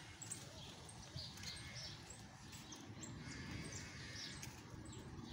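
Faint outdoor ambience: scattered high chirps of small birds over a low rumble.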